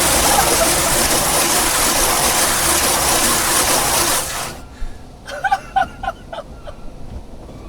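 Loud, steady rushing hiss of spraying water, which cuts off abruptly about four seconds in. After it come a few short, high-pitched chirps over quiet background.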